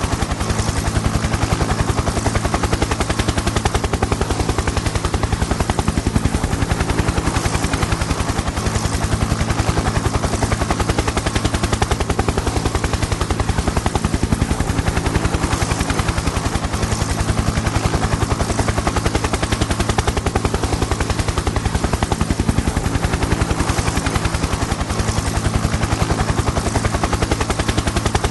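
Helicopter in flight: the rotor blades beat in a rapid, steady chop over a steady engine hum, unchanging throughout.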